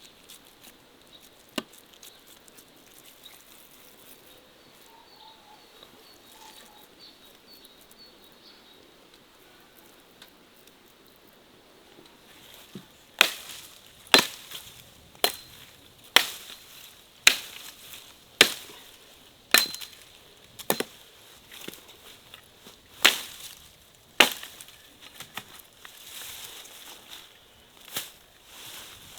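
Chopping with a blade: sharp strokes about one a second, starting a little under halfway in, after a quiet stretch with a single click.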